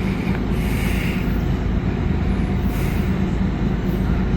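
Steady low rumble of an engine running, with a constant hum underneath.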